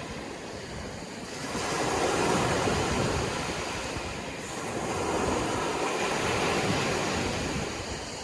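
Sea waves breaking and washing up on a shore, a steady rush of surf that swells and eases, loudest about two seconds in and again around five seconds.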